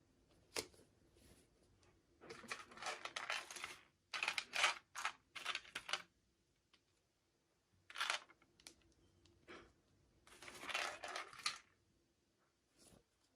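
Toy packaging and small plastic doll pieces being handled in an unboxing: a sharp click about half a second in, then several short bursts of rustling and clicking with quiet gaps between them.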